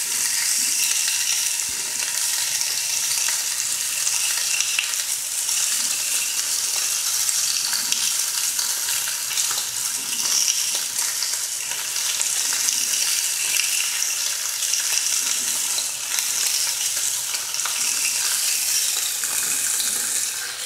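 Food sizzling and crackling steadily in hot fat in a frying pan.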